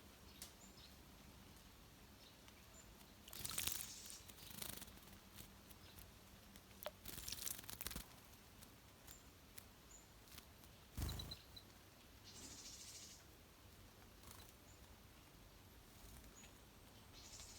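Small wild birds at a shallow outdoor birdbath: two short bursts of splashing and wing flutter, a single soft knock about two-thirds of the way through, and faint high chirps now and then.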